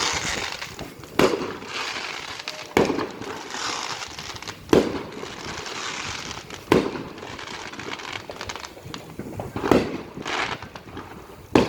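Fireworks going off: about six sharp bangs, roughly two seconds apart, over a steady rushing noise.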